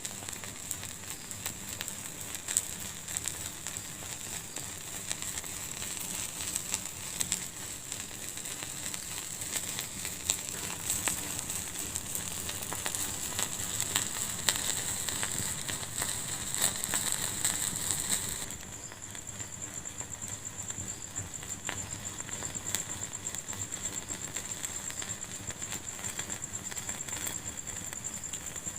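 Fire in a fireplace crackling and hissing, with frequent sharp pops. About two-thirds of the way through, the sound drops abruptly to a quieter, thinner crackle.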